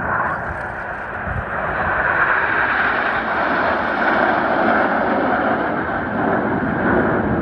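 Jet noise from the Red Arrows' BAE Hawk T1 jets flying past in formation, a roar that swells over the first couple of seconds and then holds loud.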